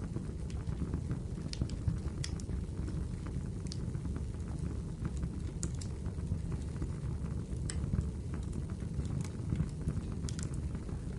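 Wood fire burning in a fireplace: a steady low rumble of flames with irregular sharp crackles and pops from the firewood, several a second.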